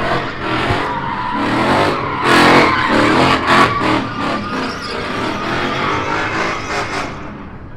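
A car doing donuts or a burnout at a street takeover: its engine is revving while its tyres skid and squeal on the pavement, in repeated loud surges. The sound drops away sharply about seven seconds in.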